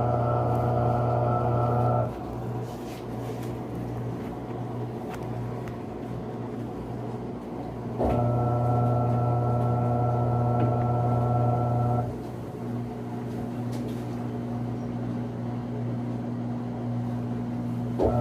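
Panasonic 14 kg washing machine's motor humming in runs of about four seconds, with pauses of about six seconds between them, as the machine goes into its spin cycle. A fainter steady hum carries on through the pauses.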